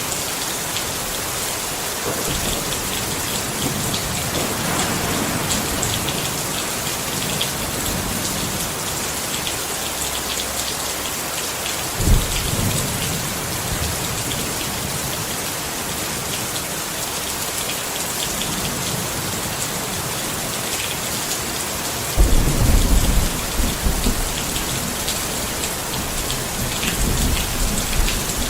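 Steady rain pattering on a tent, with thunder: a low rumble swelling early on, a sudden clap about twelve seconds in, and a louder rolling rumble lasting a few seconds from about twenty-two seconds in.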